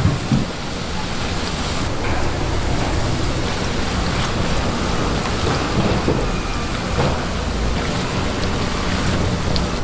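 Food sizzling and crackling in hot oil, a loud, steady hiss.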